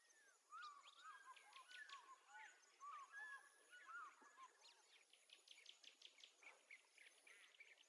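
Faint birdsong: small birds chirping and twittering in quick, short whistled notes that slide up and down in pitch, busiest in the first half and thinning out later.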